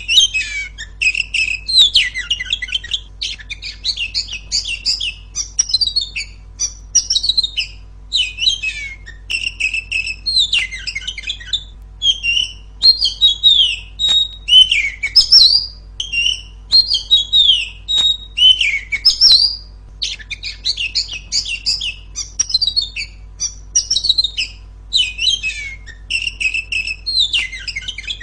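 Female oriental magpie-robin singing a loud, rapid song of chirps, trills and whistled glides, in dense runs broken by short pauses.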